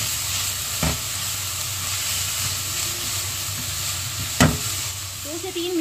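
Grated carrots sizzling in ghee in a nonstick wok over high flame while being stirred with a silicone spatula, their water cooking off. Two sharp knocks cut through the steady sizzle, about a second in and again past four seconds.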